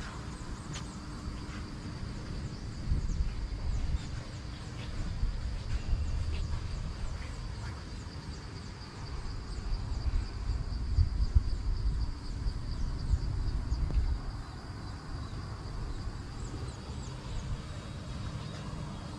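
Outdoor ambience: gusting wind rumbling on the microphone, with a steady high insect drone and a low steady hum.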